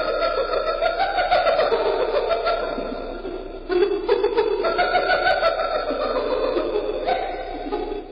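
Hyena giggling: a dense, rapid run of cackling pulses. It breaks off briefly a little over three and a half seconds in and then carries on.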